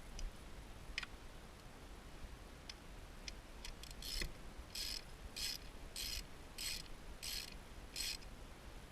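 Socket ratchet wrench ratcheting, most likely working a spark plug: a few scattered clicks, then from about four seconds in seven short, evenly spaced rasping strokes, a little under two a second.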